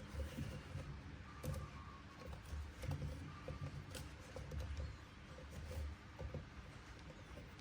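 Faint handling noises: small scattered clicks and light knocks, typical of toy figures and their packaging being handled during an unboxing.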